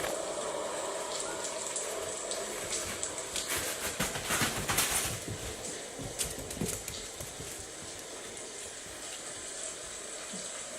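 Recorded thunderstorm sound played for the puppies: a steady hiss of rain that swells louder for about a second and a half around four seconds in, with a few knocks after it.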